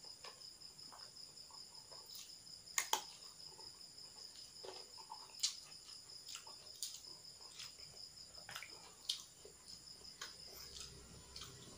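Close-up sounds of eating: bites, chewing and scattered sharp clicks, the loudest about three seconds in. Underneath runs the steady high, pulsing trill of crickets chirping.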